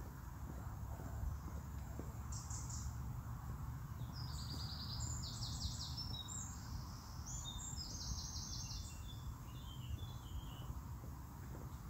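A small songbird singing: a short high phrase about two seconds in, then a longer run of rapid repeated high notes from about four to nine seconds, trailing off in lower notes. Under it is a steady low rumble of background noise.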